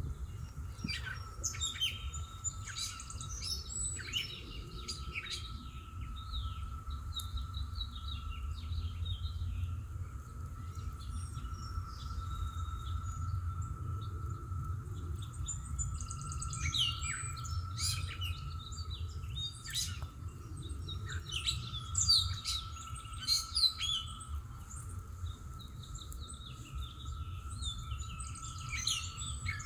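Several songbirds chirping and singing in repeated short phrases, busiest in two spells, over a steady thin background tone and a low rumble.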